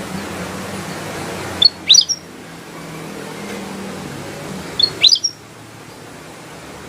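Kutilang emas bulbul giving two brief, loud chirping phrases of sharp high notes, about two seconds in and again about five seconds in, over a steady background hiss.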